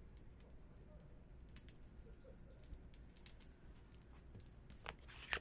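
Wood fire crackling faintly: scattered small pops and snaps, with a louder pop near the end.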